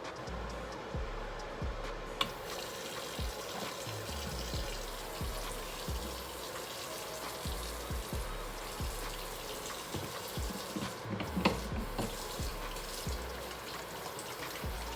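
Water running from a tap, starting with a click about two seconds in, over background music with a steady low beat.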